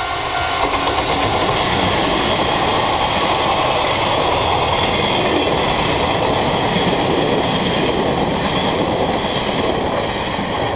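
EF81 electric locomotive hauling a nine-car train of KiHa 52 and KiHa 58 diesel railcars passing close at speed: a loud, steady rumble of wheels on rail. It swells about a second in as the locomotive comes by and eases a little near the end as the last cars go past.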